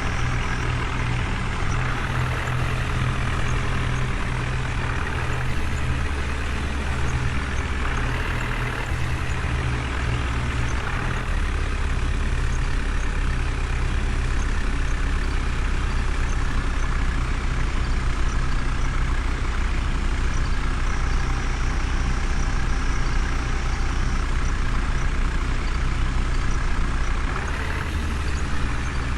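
Heavy diesel engine running steadily at a low, even pitch, with slight shifts in engine speed a few times.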